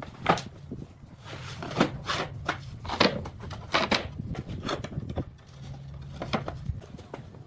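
Irregular knocks and scrapes of wood being worked, about a dozen in a few seconds, over a low steady hum.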